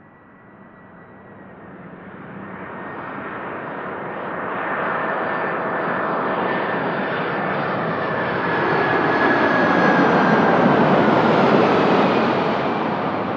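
Jet airliner passing close by, its engine noise swelling steadily to a peak near the end and easing off slightly. A whining tone drifts slowly down in pitch as it goes.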